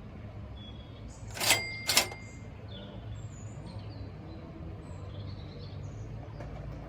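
Outdoor ambience with a low steady hum and faint scattered bird chirps. Two sharp clinks about half a second apart, with a brief ringing after them, are the loudest sounds.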